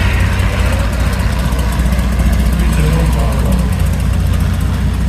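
A car engine idling steadily, with a low rumble.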